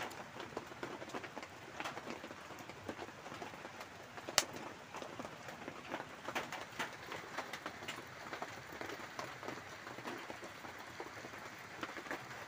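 Light rain falling on the leaves and wet ground, a steady patter of many small drops, with one sharper click about four seconds in.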